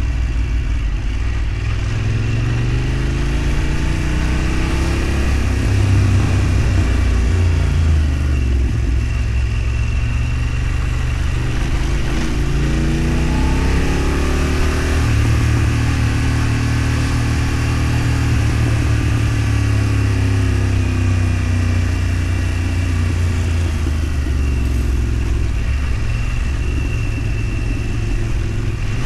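Engine of a moving road vehicle running under load, its pitch climbing as it accelerates and dropping back at gear changes, several times, over steady low road rumble.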